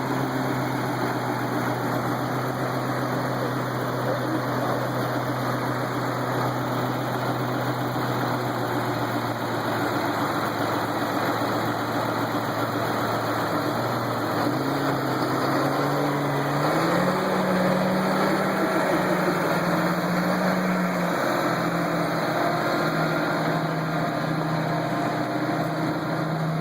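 Tractor engine running steadily. About halfway through it picks up speed, its pitch rising, then it settles slightly lower a few seconds later.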